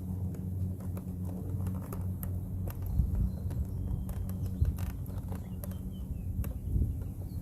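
Irregular taps, knocks and handling noise from a motorcycle helmet being wiped clean with a damp microfiber cloth, over a low hum. The loudest knocks come about three seconds in and again past the middle.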